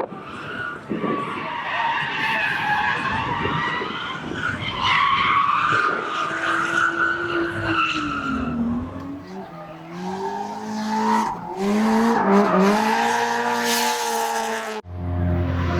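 Drift car on track: tyres squealing through a slide, then the engine revving up and down as the driver works the throttle. Near the end it cuts abruptly to a steady, lower engine note.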